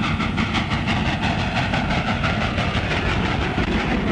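Train running along the track, its wheels clattering in a quick, steady rhythm.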